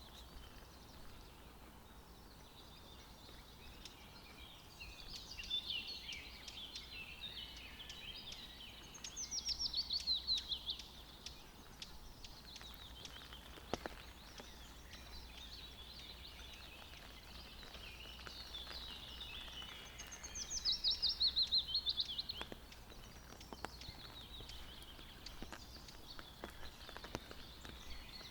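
Forest birds singing, with two loud, rapid descending trills about ten seconds apart over softer warbling song. Faint scattered ticks and a low steady background hiss sit under it.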